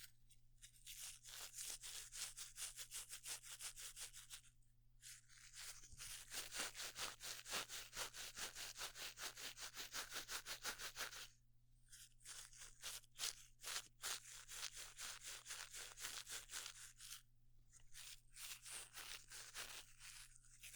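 Quick scratchy scraping strokes on the microphone, about five a second, in four runs with short pauses between them: an ASMR trigger that stands in for a dentist scraping the teeth.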